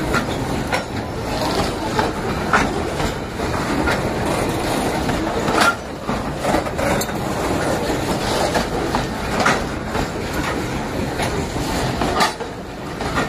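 Long freight train of covered goods wagons rolling past close by: a steady rumble of steel wheels on rail, with sharp irregular clacks as the wheels cross rail joints.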